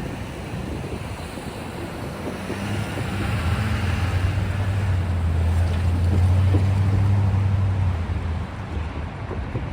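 Freight train rolling past a grade crossing, a steady rumble of cars on the rail. A diesel locomotive's engine hum builds from about two and a half seconds in, is loudest around six to seven seconds, then drops away near the end; this is most likely the rear distributed-power unit, a GE ES44AC, going by.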